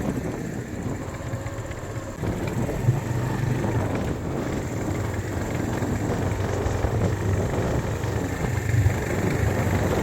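A motor vehicle running with a steady low engine drone and road noise.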